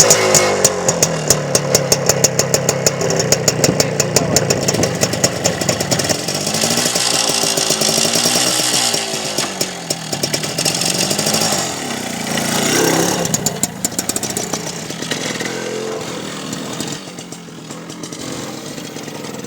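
Motorcycle engine running, with a rapid, even firing beat. Its pitch rises and falls several times as the throttle is worked, then it runs quieter near the end.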